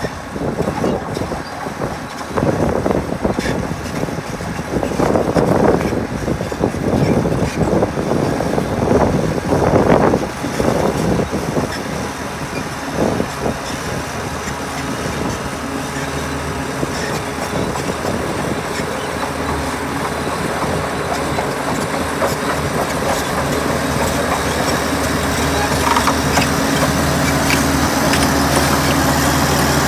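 Heavy diesel construction machinery running, with uneven surges of noise for the first dozen seconds. Then the engine settles into a steady hum that grows slowly louder toward the end.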